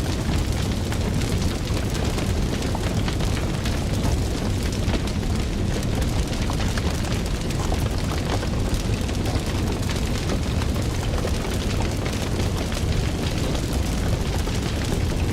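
Fire crackling: a steady low rumble of flames with many small pops and snaps scattered throughout.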